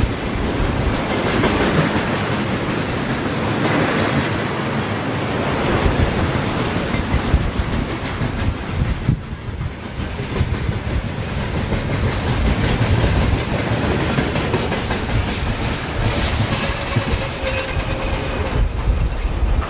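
Electrified railway train running past at close range, its wheels clattering over the rail joints.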